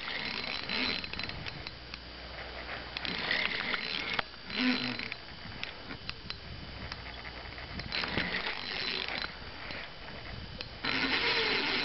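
Spinning fishing reel during a fight with a heavy fish: intermittent bursts of reel noise and clicks. About eleven seconds in, the drag starts running steadily as the fish pulls line off, the sign of a big fish.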